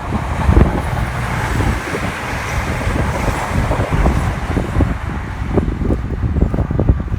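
A train passing along the sea-front line, a steady rush of rail and engine noise, with wind buffeting the microphone.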